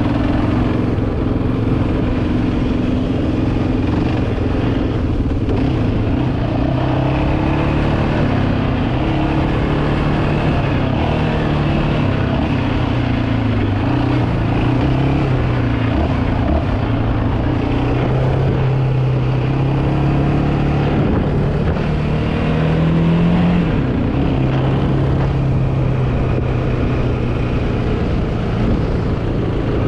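Yamaha Raptor 700R ATV's single-cylinder four-stroke engine running under way, its pitch rising and falling with the throttle and climbing briefly a little over twenty seconds in.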